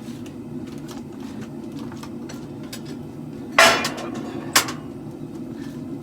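Two sharp hammer blows on steel, about a second apart, the first ringing briefly, over a steady low rumble.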